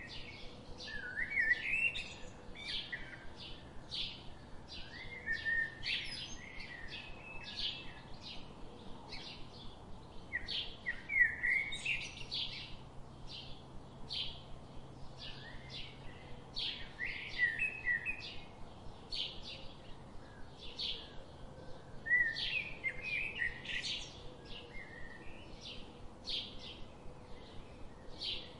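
Small birds chirping: a steady run of short high chirps, about three a second, with bursts of twittering calls every few seconds, the loudest about eleven seconds in.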